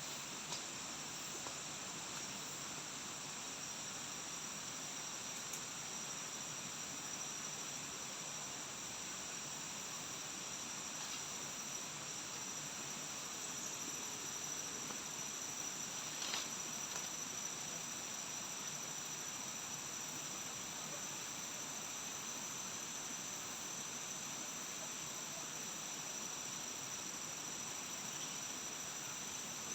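Steady chorus of forest insects, a continuous high-pitched drone over a soft hiss, with a faint tick about sixteen seconds in.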